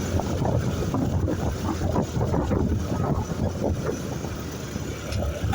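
Motorcycle running on the road, its engine drone mixed with wind buffeting the microphone as a steady, rough rumble.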